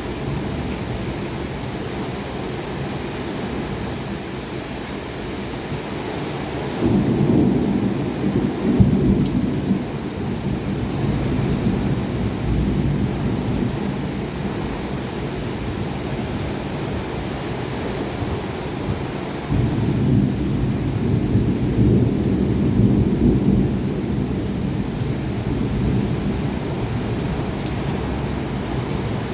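Heavy rain falling steadily in a thunderstorm, with thunder rumbling. The thunder swells about seven seconds in and again at about twenty seconds, each roll lasting several seconds.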